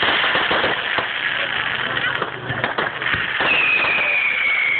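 Fireworks crackling and popping in a rapid, dense string, with a high whistling firework starting about three and a half seconds in and falling slightly in pitch.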